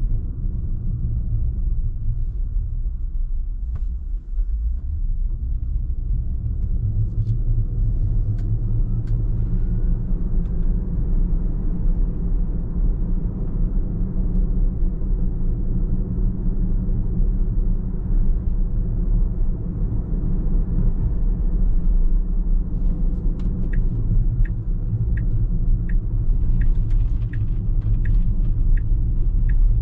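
A car's steady road and engine rumble while driving, deep and constant. Near the end, a regular ticking starts, a little more than one tick a second.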